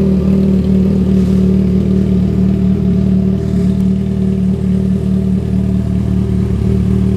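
Yamaha FZ6R's inline-four engine idling steadily through a Two Brothers Black Series full-system exhaust with its dB killer removed, loud and even with no revving.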